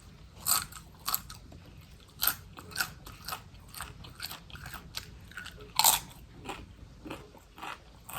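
Crisp food being bitten and crunched close to the microphone, with irregular crunches and chewing; the loudest crunch comes about six seconds in.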